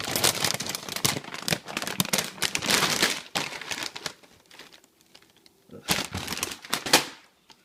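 A crinkly bag of Lay's potato chips being handled and crumpled: a dense rustling crackle for about the first three seconds, then a few shorter crinkles near the end.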